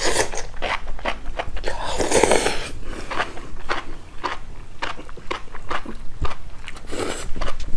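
Close-miked eating of spicy instant noodles: wet chewing and mouth clicks, with two longer slurping sounds, one about two seconds in and one near the end.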